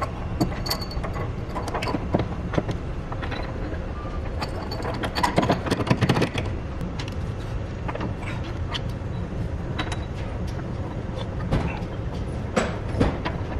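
A steady low mechanical rumble, like a machine running, with irregular sharp metal clanks and knocks from parts and tools being handled. The knocks are busiest around the middle and again near the end.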